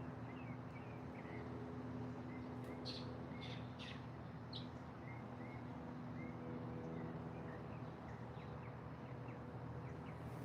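Small birds chirping and calling in short, repeated notes, with a few louder, higher calls from about three to four and a half seconds in, over a steady low hum.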